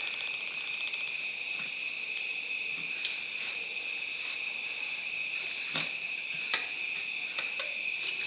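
Insects, likely crickets, trilling steadily on a high, even pitch, with a few light metallic clicks and knocks from tyre levers working a tyre onto a motorcycle wheel rim.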